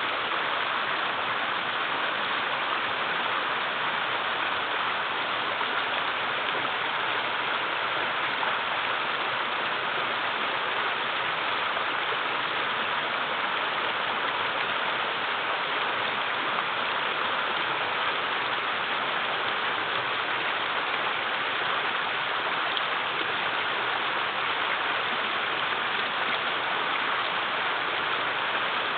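Shallow mountain river flowing over small rock cascades, a steady, even rush of water with no breaks. The river is running low in the dry season.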